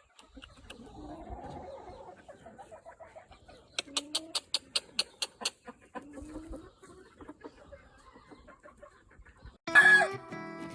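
Gamefowl roosters and hens clucking, with a quick run of sharp clucks a few seconds in and a loud call near the end. Background music with guitar comes in at the very end.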